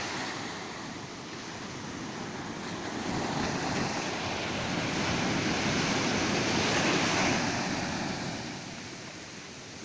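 Ocean surf washing onto a beach: a steady rush of breaking waves that swells from about three seconds in, is loudest around seven seconds, then eases off.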